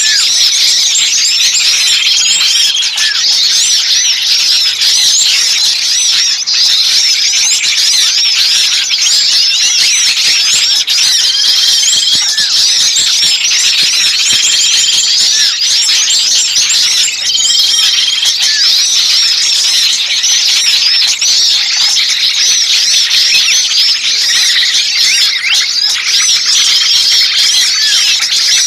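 Dense, agitated chorus of many small songbirds chattering and chirping over one another, with a short flat whistled note recurring every few seconds. This is a bird-lure recording of noisy small birds, played to draw wild birds in.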